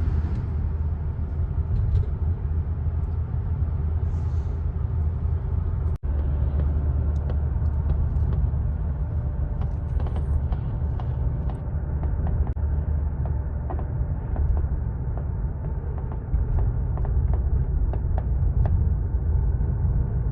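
Steady low outdoor rumble with many faint short crackles and pops from about nine seconds in, and a brief dropout about six seconds in.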